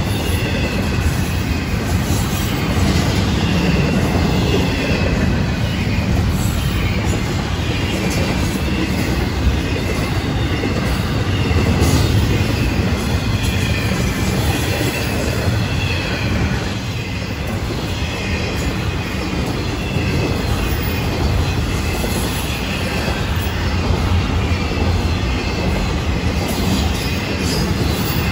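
Double-stack intermodal freight cars rolling past at speed: a steady rumble and rattle of steel wheels on the rails, with a faint, wavering wheel squeal over it through roughly the first half.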